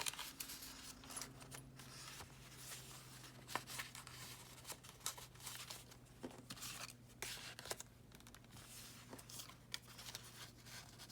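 Paper pages of a junk journal rustling and crinkling as they are turned and handled, in short irregular rustles over a faint steady low hum.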